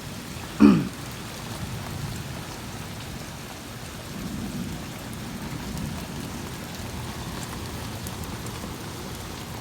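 Heavy rain falling steadily in a thunderstorm, with a low thunder rumble swelling about four seconds in. About half a second in there is one short, loud sound that falls in pitch.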